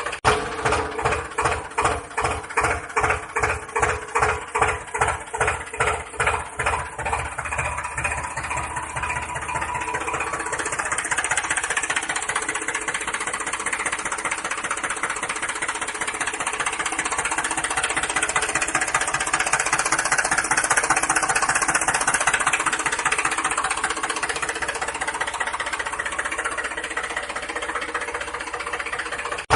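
An engine running with a steady chugging pulse for the first ten seconds or so, then running more smoothly and growing louder for a while before easing off.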